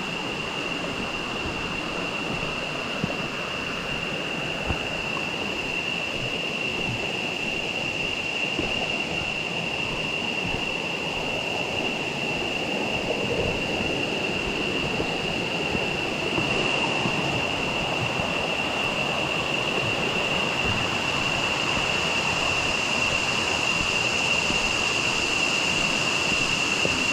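River water rushing over rocks, a steady noise that grows a little louder through the stretch, with a steady high-pitched tone running over it.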